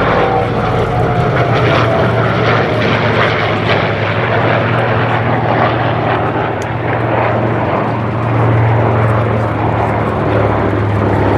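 Radial piston engines and propellers of a Douglas DC-6B, four Pratt & Whitney R-2800s, and a North American B-25J Mitchell, two Wright R-2600s, flying past together with a steady, loud drone. In the first couple of seconds a faint engine tone falls slightly in pitch.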